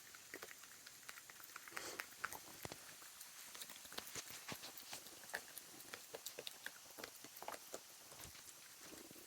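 A raccoon chewing peanuts close by: faint, irregular crunching and small clicks.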